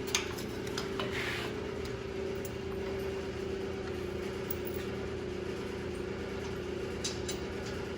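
Steady machine hum holding one constant tone, with a few faint clicks and light knocks.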